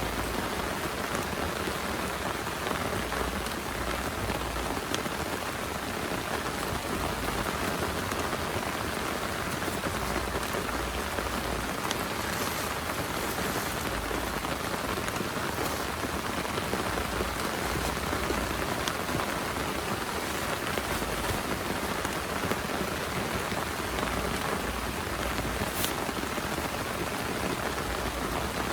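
Heavy rain falling steadily, with a few sharper drop impacts here and there.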